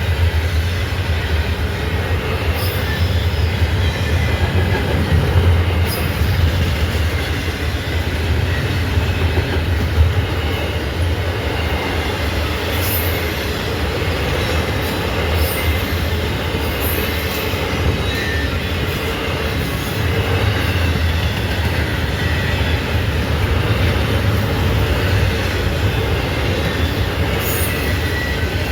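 A long freight train, a Norfolk Southern intermodal and auto rack train, rolling steadily past with a continuous deep rumble of wheels on the rails.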